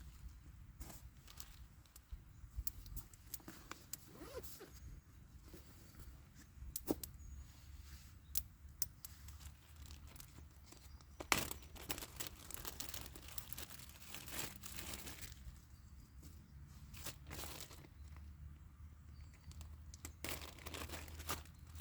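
Irregular crackling and rustling with scattered sharp snaps, a few louder snaps among them.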